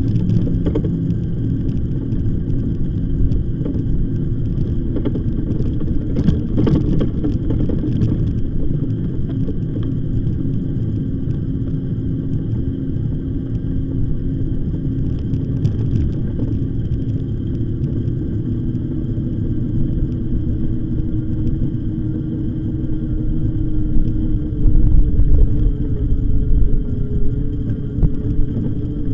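Steady rumble of an electric bike being ridden, with tyre and wind noise and a steady motor hum that drifts a little in pitch. A louder low rumble comes a few seconds before the end.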